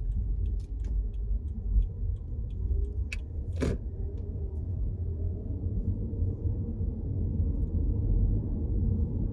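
A car driving, a steady low rumble of road and engine noise, with two sharp clicks a little over three seconds in.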